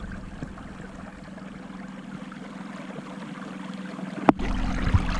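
Creek water flowing over a steady low hum. A sharp click comes about four seconds in, after which the water noise is louder.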